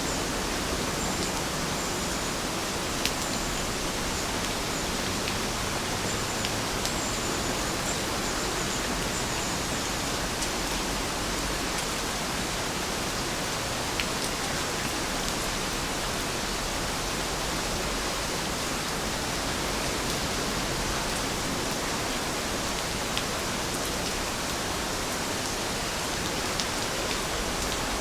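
Heavy rain falling in a steady, even hiss, with now and then a sharp click of a single drop striking close by.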